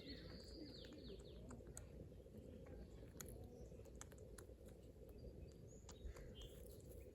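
Near silence: faint outdoor background with a brief chirping call at the very start, a few faint chirps about six seconds in, and scattered faint clicks.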